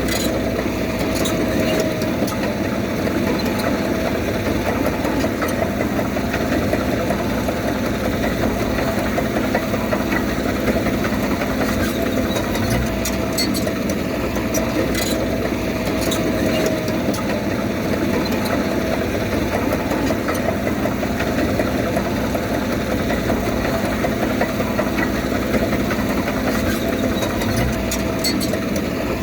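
Komatsu D31P bulldozer's diesel engine running steadily, with a few faint scattered clicks over it.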